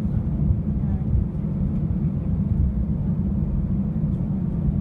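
Steady low rumble of an Airbus A319 airliner, with no distinct events.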